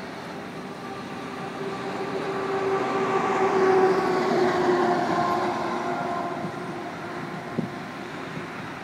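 Loaded ballast hopper cars of a freight train rolling past, steel wheels on rail, with a ringing whine that swells to a peak about four seconds in, then slowly falls in pitch as it fades.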